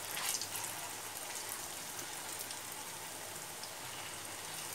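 Chhana koftas sizzling steadily in hot oil in a pan, with scattered faint crackles and a brief louder crackle near the start as they are turned with a spatula.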